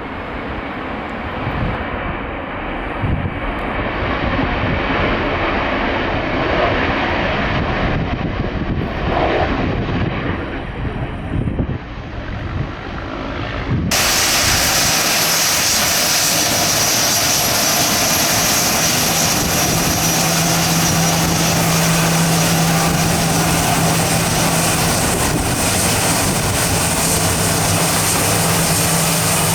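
Gulfstream G550 business jet's Rolls-Royce BR710 turbofan engines, heard with wind buffeting the microphone. About halfway through, the sound switches abruptly to a louder, steady engine noise with a low hum.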